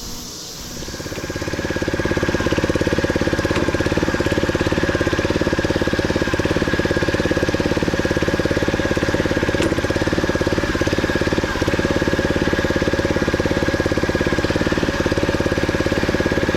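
An engine running steadily close by, building up over the first couple of seconds and then holding an even, rapid firing pulse with a steady high whine over it.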